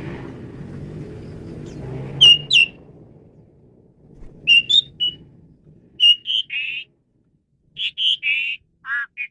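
Asian pied starling (jalak suren) calling: sharp, high whistled notes, then short harsh warbled notes in quick groups of two or three. A low rumble lies under the first two seconds or so and fades out.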